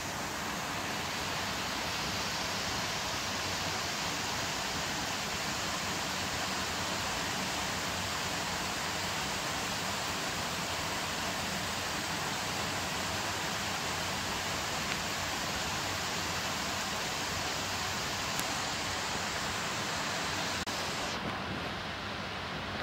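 Heavy rain pouring steadily in a rainstorm, a dense even hiss. The higher part of the hiss drops away abruptly about two seconds before the end.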